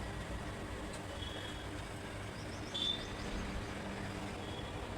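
Steady background rumble of road traffic, with a few brief faint high chirps about one and three seconds in.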